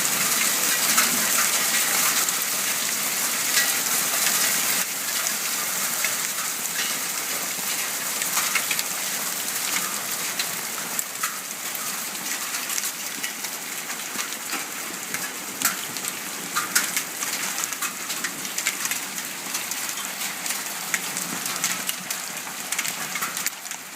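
Hail and heavy rain falling on a patio: a dense steady hiss studded with many sharp clicks of hailstones striking hard surfaces. The hiss eases slightly after about five seconds.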